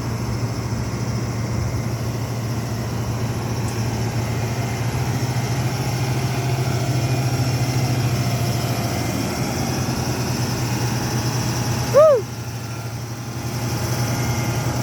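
Old dump truck's engine idling steadily. About twelve seconds in there is a short, loud exclamation, and the engine sound drops a little for a moment after it.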